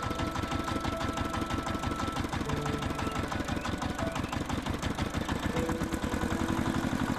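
Small motor of a miniature model tractor or dozer running steadily, with a fast, even knocking rhythm.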